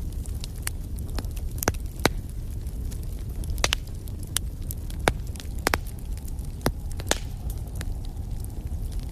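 Fireplace fire crackling: a steady low rumble of flame with irregular sharp pops and snaps, the loudest coming about two, five and seven seconds in.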